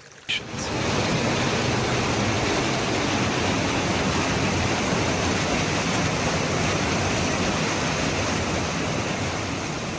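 Fast-flowing floodwater rushing steadily, starting about half a second in.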